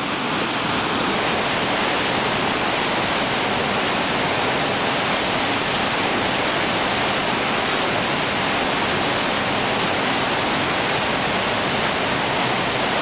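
Whitewater rapid on the Chattooga River rushing steadily: an even roar of churning water.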